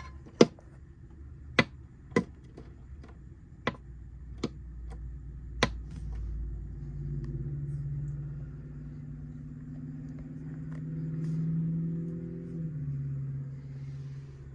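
A bird pecking at the house: sharp, irregular taps, six in the first six seconds. From about six seconds in, the low hum of a vehicle engine swells and holds, dropping in pitch near the end.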